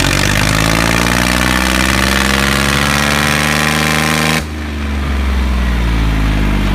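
Toy-sized tractor's motor running hard, its pitch rising steadily for about four seconds, then dropping abruptly and running lower.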